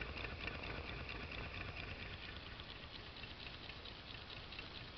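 Small water-cooled Stirling engine running quietly, giving a light, fast, steady pattering clatter from its loose-fitting main bearings and linkage.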